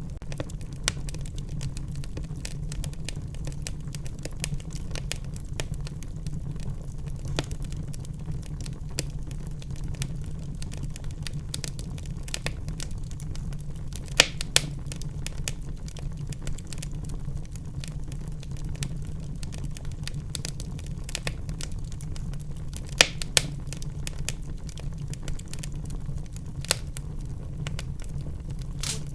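Wood fire burning in a fireplace: a steady low rumble of the flames under constant crackling, with a few sharper pops about halfway through and again past two-thirds of the way.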